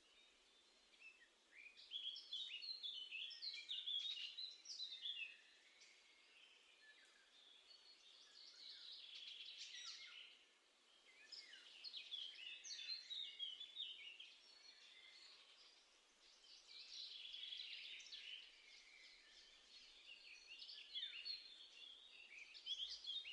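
Songbirds singing in phrases of quick chirping notes, each a few seconds long with short pauses between, about five phrases in all.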